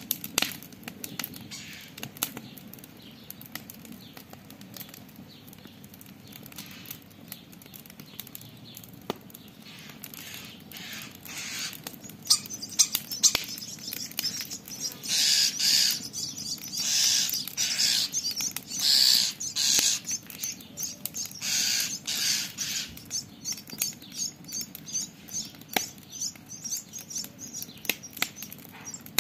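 Campfire crackling with sharp pops throughout. From about a third of the way in, a starling gives a string of harsh scolding calls, each up to a second long and loudest around the middle, before the crackling carries on alone.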